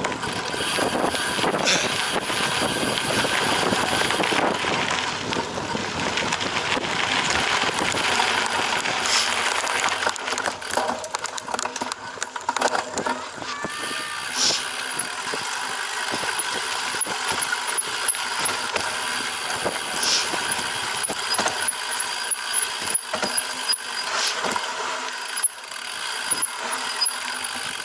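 Cyclocross bike clattering and rattling over rough, bumpy ground while being ridden, with many sharp knocks over a steady rushing noise that is heavier in the first part.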